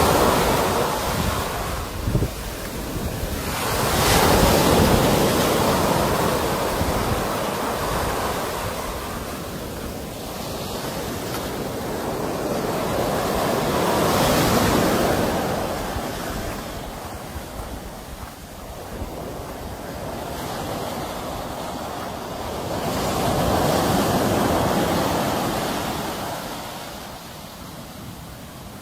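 Sea waves breaking and washing in, each swelling and then easing off, about one wave every ten seconds.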